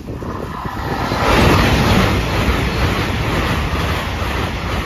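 A ten-car Hull Trains Hitachi Class 802 passes over the level crossing at speed: a rush of air and wheel noise that builds within the first second, is loudest about one and a half seconds in, and then stays steady.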